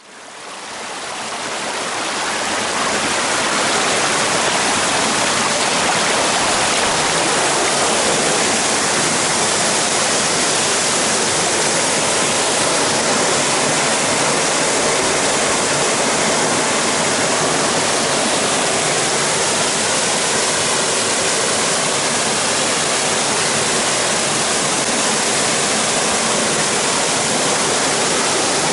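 Mountain stream water rushing steadily over rocks, fading in over the first couple of seconds.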